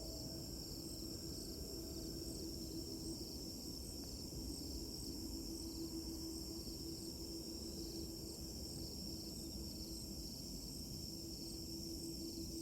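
Insects chirping in a steady, regularly pulsing chorus over a low, steady hum.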